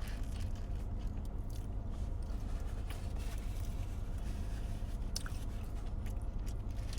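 A person chewing food in a car, with a steady low hum underneath.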